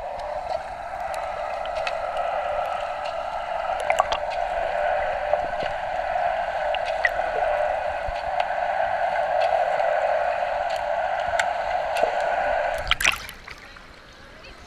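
Steady rushing water, heard muffled through a GoPro's waterproof housing as the camera sits in or under the water. It begins right after a splash and cuts off with another splash about thirteen seconds in.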